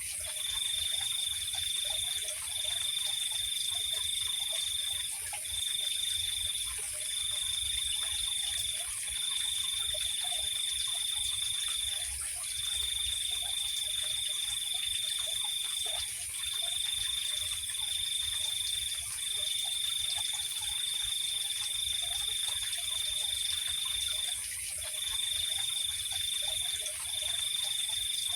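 Night-time insect chorus. A high, steady trill runs in stretches of one to four seconds with short breaks, over a constant higher hiss of other insects, with faint short low calls underneath.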